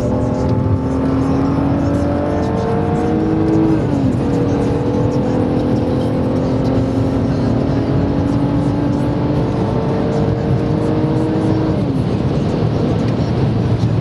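BMW E46 330i's straight-six engine heard from inside the car under hard acceleration on track, its note climbing steadily through the revs. The pitch drops sharply about four seconds in as it shifts up, then climbs again and drops once more about two seconds before the end, over steady wind and tyre noise.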